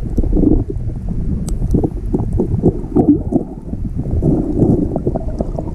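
Muffled underwater rumble with irregular bubbling, typical of a scuba diver's exhaled regulator bubbles heard through a camera housing.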